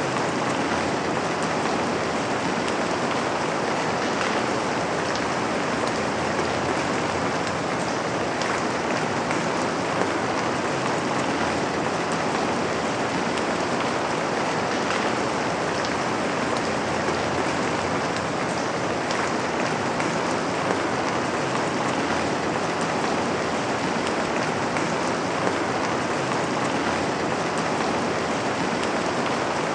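Steady rain falling, an even hiss with scattered small drop ticks on a surface.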